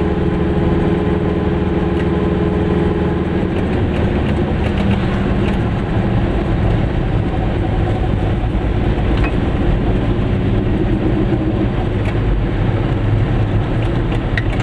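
Goggomobil's small two-stroke twin engine running while the car drives along the road, with a steady rush of road noise. The engine note drops about three and a half seconds in.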